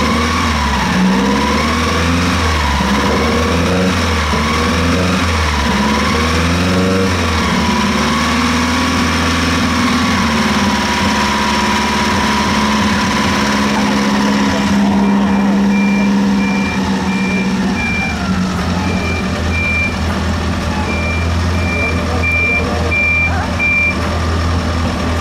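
A vintage car engine running, its pitch rising and falling in light revs, then holding a steady idle. After a cut, a car transporter's reversing alarm beeps in short regular pulses over a running engine.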